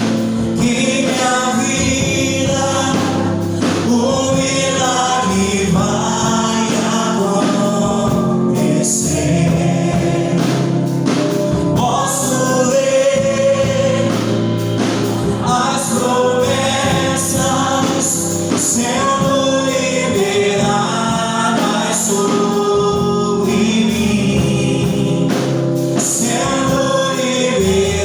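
Gospel worship song: a group of voices singing together over instrumental accompaniment, continuous and steady in loudness.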